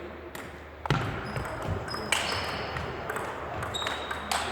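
Table tennis ball clicking off bats and table in a sports hall, with a heavy low thump about a second in and short high squeaks between the hits.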